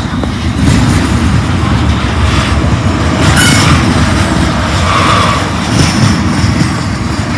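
Freight train rolling past, the cars rumbling on the rails, with a brief wheel squeal about three and a half seconds in.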